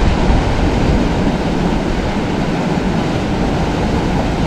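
Steady rushing of a river's flowing water, with low rumbling wind buffeting the microphone.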